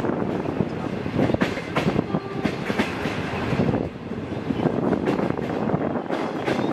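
Wheels of a 25B passenger coach running along the rails at speed, heard through the coach window: a steady running noise with many irregular clicks and knocks from the wheels and running gear.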